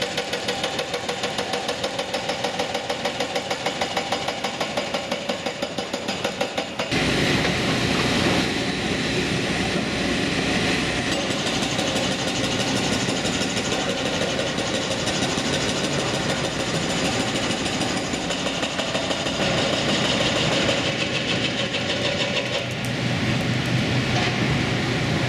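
Construction machinery, most likely a Hitachi Zaxis 350 excavator with its diesel engine running. For about the first seven seconds there is a rapid, even pulsing; then a deeper, fuller engine sound comes in and holds steady.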